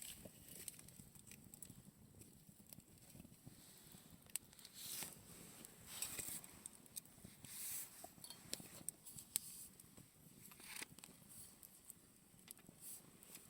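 Campfire burning quietly: scattered crackles and pops, with short swells of hissing a few times.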